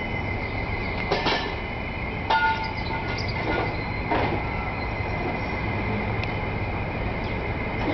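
Approaching electric passenger train, an Amtrak Regional behind an HHP8 locomotive: a steady low rumble with a constant high ringing tone, and a few sharp clicks in the first half.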